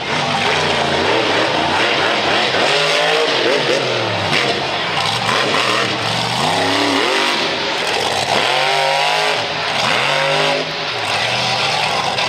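Monster truck engine revving hard, its pitch climbing and dropping again and again as the throttle is worked, over a steady wash of noise.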